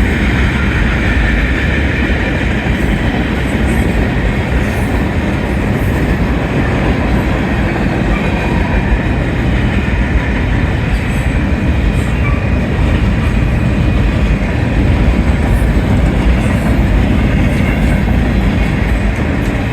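A Union Pacific manifest freight train's cars rolling quickly past a grade crossing: a loud, steady noise of steel wheels on rail, with a few faint clicks.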